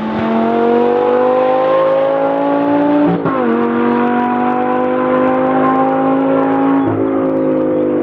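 Racing car engine accelerating under load, its pitch climbing steadily and dropping sharply at an upshift about three seconds in, then climbing again to a second upshift near the end.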